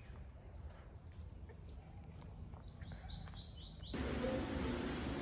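A small bird singing a run of quick, high chirps, each dropping in pitch, about three or four a second. A little under four seconds in, it cuts off abruptly into a louder steady hiss with a low hum.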